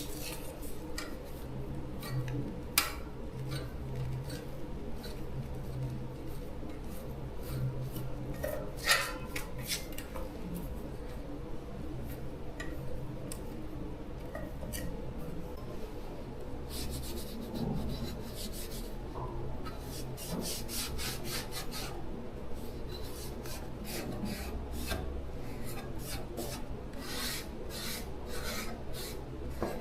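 Hand scraping and rubbing on a fan part, in short strokes, with scattered light clicks and taps of tools and parts over a faint steady low hum.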